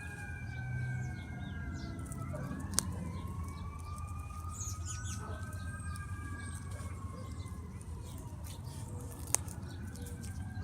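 Emergency sirens wailing at a distance, several slow rising and falling tones overlapping, over a steady low hum. Two sharp clicks stand out, one about three seconds in and one near the end.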